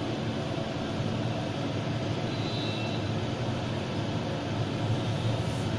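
Steady drone of a vehicle engine running, over a haze of road traffic noise.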